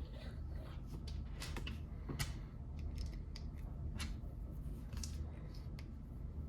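Scattered small clicks of plastic Lego pieces being handled and pressed together, a few irregular clicks over a steady low hum.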